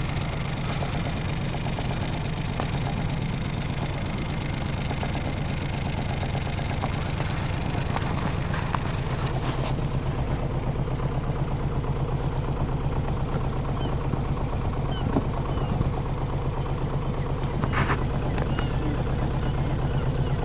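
Boat's engine idling steadily with an even, fast chug, with a sharp knock near the end.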